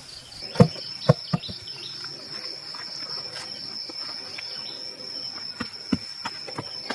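Insect, cricket-like, trilling steadily at a high pitch. Several sharp knocks break in: two loud ones about half a second and a second in, a quieter one just after, and a few more near the end.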